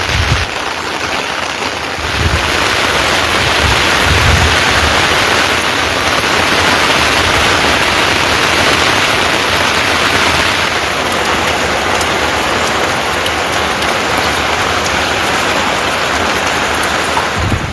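Heavy rain falling steadily, a dense even hiss that grows louder about two seconds in, with a few dull low thumps in the first few seconds.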